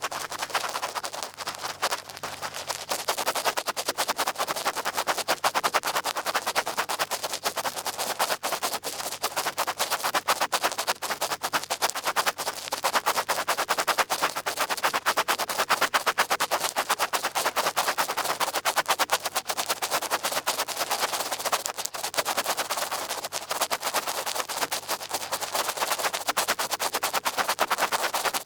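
Large ear pick scraping and scratching for ASMR ear picking, a dense, fast crackle of tiny clicks that swells and eases in waves.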